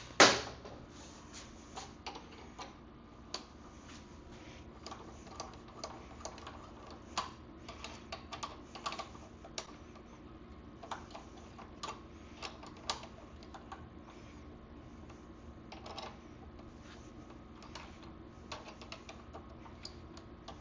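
Irregular light metallic clicks and taps as a seized part on a 1974 MX100 dirt bike, freshly soaked with penetrating oil, is worked back and forth to free it. One sharp, loud knock comes right at the start.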